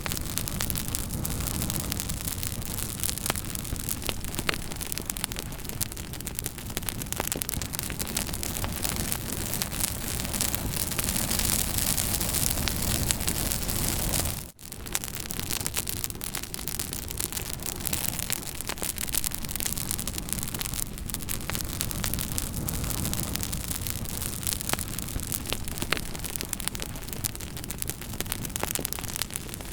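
Campfire burning, with many small sharp crackles and pops over a steady rushing hiss. The sound drops out for an instant about halfway through.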